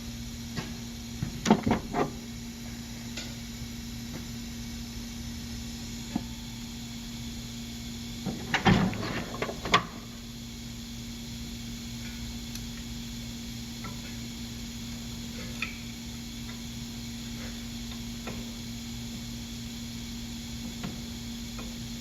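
Steady background hum with two brief bursts of knocking and metallic clatter, one about a second and a half in and a longer one around nine seconds in, from hand tools and parts being handled during a rear wheel bearing replacement.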